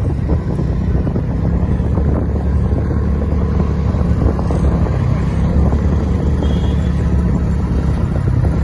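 Motorcycle riding along a road: steady engine and road noise with wind buffeting the microphone.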